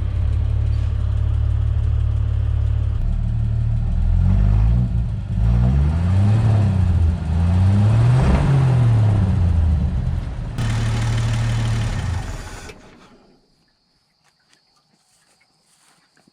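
1966 Chevy C30 truck engine idling, then revved up and down several times before settling back to idle; it shuts off about thirteen seconds in.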